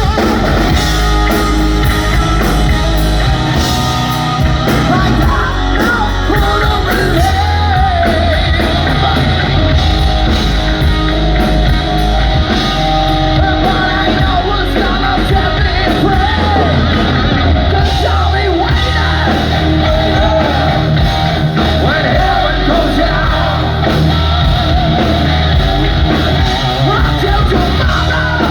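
Rock band playing live at full volume, with singing over electric guitars, bass and drums.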